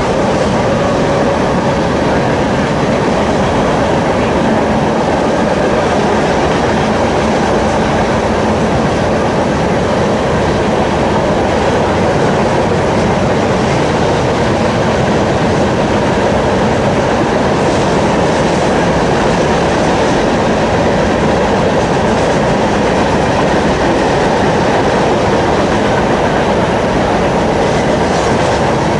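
A train's cars rolling past, their wheels running loud and steady on the rails.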